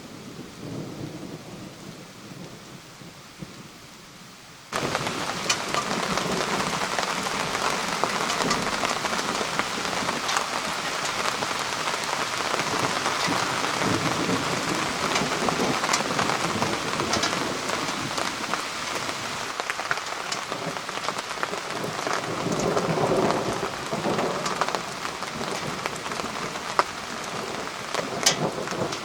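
Thunderstorm: rain falling with thunder rumbling. About five seconds in, the rain jumps suddenly to a heavy, steady downpour with sharp drop hits, and a low roll of thunder swells near the end.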